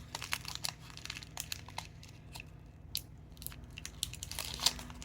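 Small plastic bag crinkling and crackling as it is handled, with scattered small clicks, a little louder near the end.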